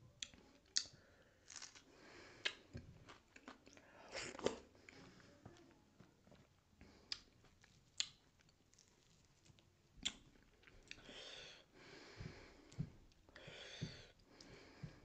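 Close-miked wet chewing and lip smacking of a mouthful of dhido and sisnu (nettle soup), with irregular sharp smacks, and softer squishing as fingers mix the food in the plate.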